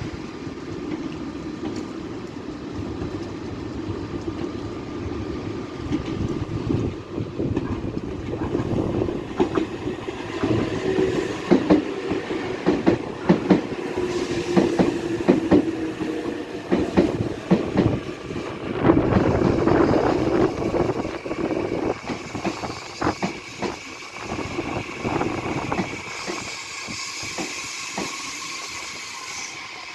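Meitetsu electric train running through the station, its wheels clacking over rail joints in quick runs over a steady running rumble. The clacks are loudest in the middle, and the sound dies down near the end.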